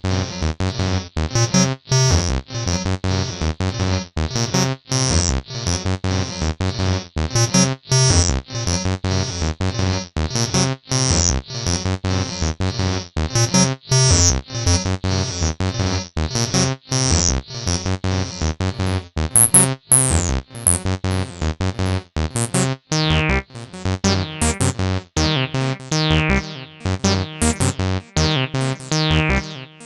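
TB-303-style acid synth line played on the Acid Machine app: a fast, steady sequence of short repeating notes with a resonant filter that chirps downward on many notes. In the second half the filter opens wider and its downward sweeps become longer.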